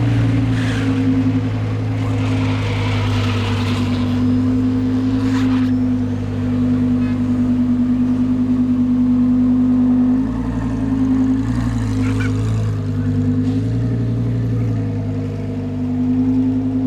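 Lamborghini engine running at low, steady revs, an even drone with a small change in pitch a little past the middle.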